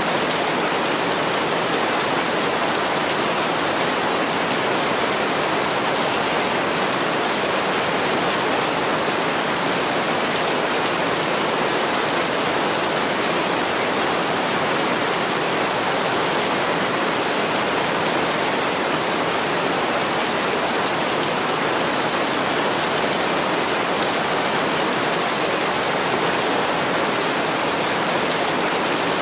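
Heavy rain pouring onto a window pane, a steady, even hiss with no individual drops standing out.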